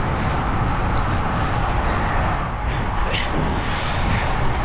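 Steady, loud rushing and rumbling noise with a heavy low end, with a faint voice about three seconds in.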